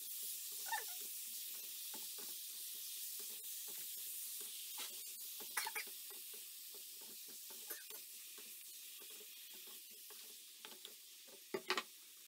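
Raw chicken pieces sizzling quietly in oil with fried shallots and spices in a nonstick pan, with the scrapes and clicks of a wooden spatula stirring them; a few sharper clacks near the end.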